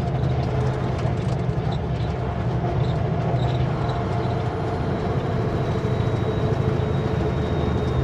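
Steady drone of a Kenworth W900L semi truck's diesel engine and road noise, heard from inside the cab while driving at a constant pace.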